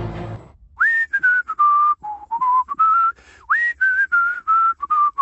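A whistled tune of about a dozen clear, pure notes in two phrases. Each phrase opens with a quick slide up to its highest note and then steps down; the first dips low before climbing again.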